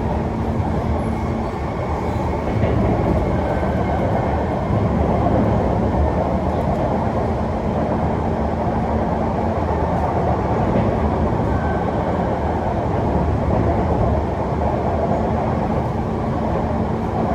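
Interior noise of a Kawasaki C151 metro train running between stations: a steady rumble of wheels on track and running gear inside the car, with a low hum that comes and goes a few times.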